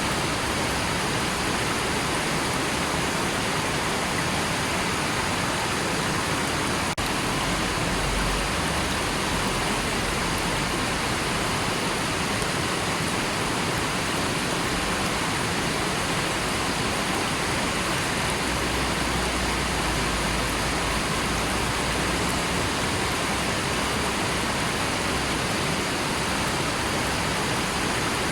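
River water rushing in a steady, even hiss, with a brief dropout about seven seconds in.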